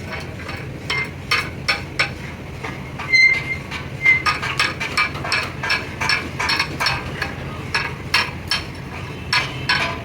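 Repeated light metal-on-metal taps and clinks, irregular at about two to three a second, each with a short ringing, over a steady low hum.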